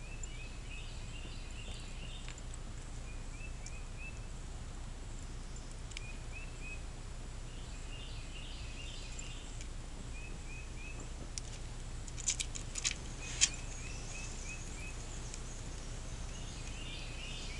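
A bird singing in the background, repeating a short chirping phrase every few seconds over a steady low hum. About twelve seconds in comes a quick cluster of sharp clicks, the last and loudest about a second and a half later.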